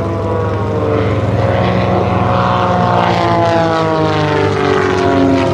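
Aerobatic biplane's piston engine and propeller droning loudly in flight, the pitch sliding down and then back up as the plane manoeuvres.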